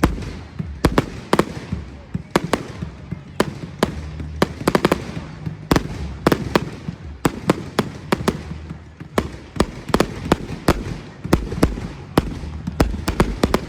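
Fireworks display: an irregular run of sharp bangs from bursting aerial shells, often several in quick succession, over a steady low rumble.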